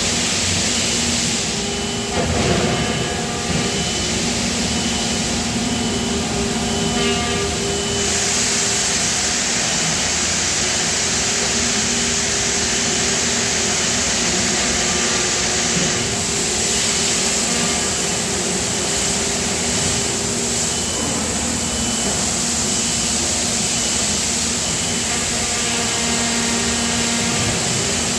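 Loud, steady machinery noise of a die casting shop: a continuous hum and hiss, with a high beep repeating in short, even pulses.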